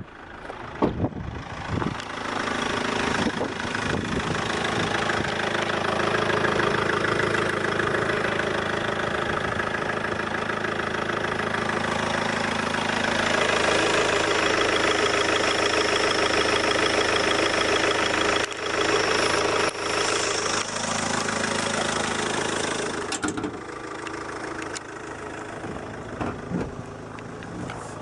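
GM Daewoo Winstorm SUV's engine running. It builds up over the first few seconds, holds louder through the middle and drops back lower near the end.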